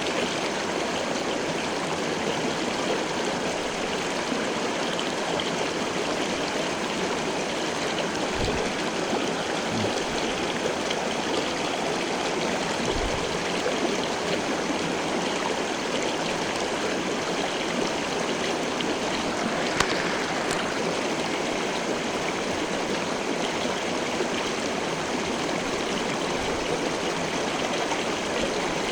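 Stream water rushing and splashing steadily, with one sharp click about twenty seconds in.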